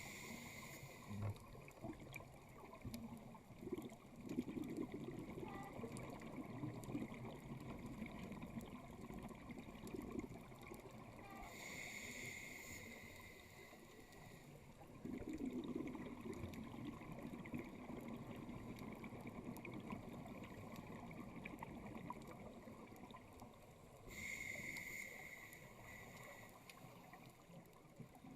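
A scuba diver breathing through a regulator underwater in a slow, regular cycle. Three inhalations come through as short hissing draws about twelve seconds apart, and the exhaled bubbles rumble and gurgle a few seconds after the first two.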